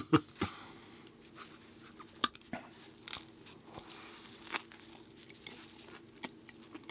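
A person chewing a mouthful of food close to the microphone, with scattered soft smacking clicks.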